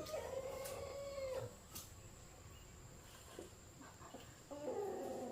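Two long, pitched animal calls: one right at the start lasting about a second and a half, rising then falling slightly, and another starting near the end.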